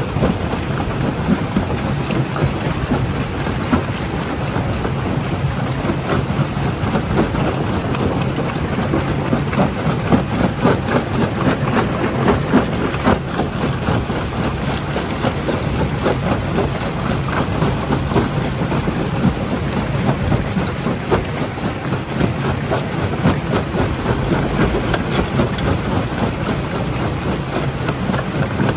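Primary jaw crusher running under load, a steady low hum of the machine beneath a continuous dense clatter of rapid knocks as rock is crushed.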